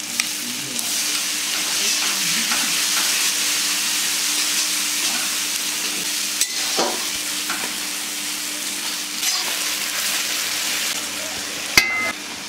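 Spice paste with tomato sizzling loudly in hot oil in a pan as it is stirred, the sizzle jumping up right at the start as the wet tomato paste hits the oil. The stirring utensil knocks on the pan a few times, with a sharp clink near the end.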